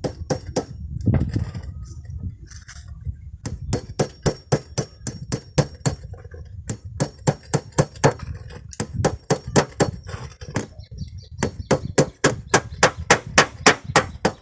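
Hammer striking steel nails set in a car tyre, in quick runs of about three to four blows a second with a short pause between runs.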